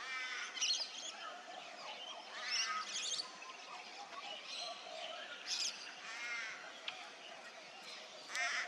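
Birds chirping and calling, short calls coming every second or two, some of them harsher and buzzier than the others.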